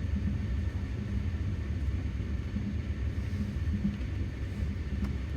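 Steady low rumble of a moving passenger train, heard from inside a sleeper carriage.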